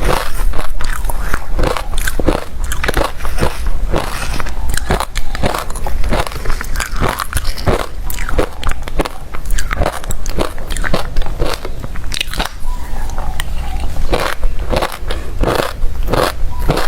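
Close-up chewing of hard refrozen crushed ice: rapid, irregular crunching and cracking as the ice breaks between the teeth.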